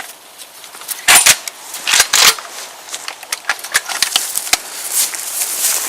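Shotgun being handled and loaded: sharp metallic clicks and clacks, a double one about a second in and a cluster about two seconds in, with lighter ticks and rustling between.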